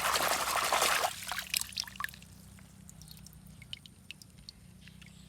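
Water pouring for about a second, then stopping, followed by a few small drips and clicks.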